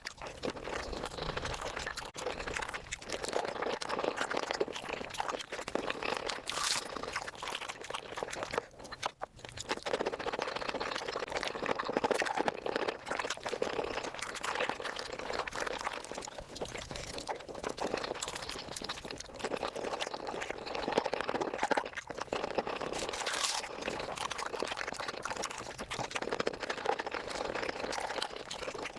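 Chicken feet being chewed and crunched close to the microphone, sped up: a dense, continuous crackle of fast wet clicks and crunches, with a brief break about nine seconds in.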